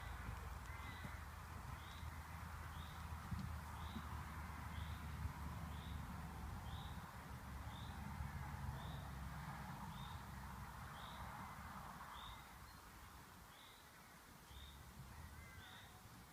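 Birds calling outdoors, with a short high note repeating about once a second, over a low rumble of wind on the microphone.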